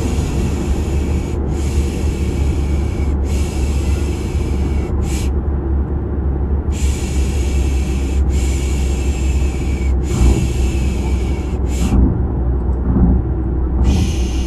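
Steady low car-engine rumble, as heard inside a moving car, with a repeated 'pışşş' shushing hiss over it. Each shush lasts a little over a second; they come in runs of three or four, with a pause of about a second after the first run and about two seconds before the last shushes near the end.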